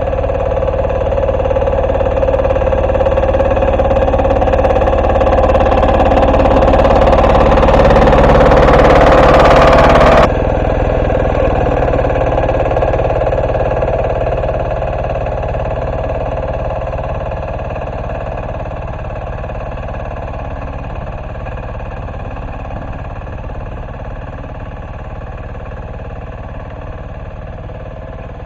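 Single-cylinder diesel engine of an MB2 walk-behind tractor running steadily under load while ploughing. It grows louder for about ten seconds, drops suddenly, then slowly fades.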